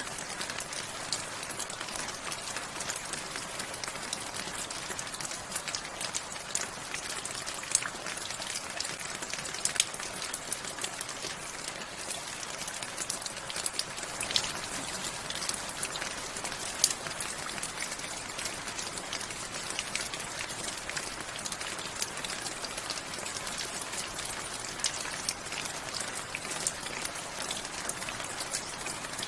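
Steady rain with many separate drops ticking on a hard surface over an even hiss.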